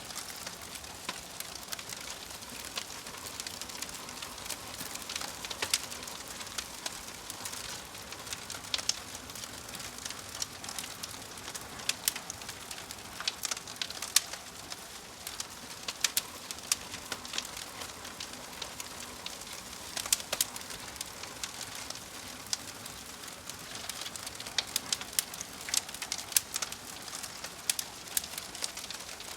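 Wood fire crackling, with frequent sharp, irregular pops and snaps over a steady hiss.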